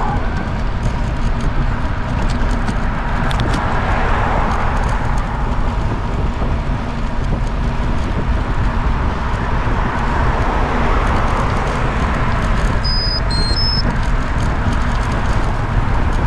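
Steady rumble of road and wind noise while travelling, with a quick run of four or five short, high electronic beeps at different pitches near the end.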